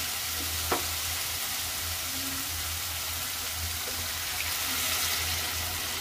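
Onion-tomato masala sizzling in oil in a kadai, fried to the stage where the oil has separated, with one light knock about a second in. In the second half, water is poured in from above, splashing into the hot masala.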